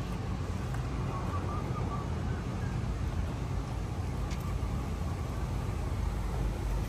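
Yamaha R1M's crossplane inline-four, through a full Akrapovic exhaust, running steadily with a low, even rumble and no revving.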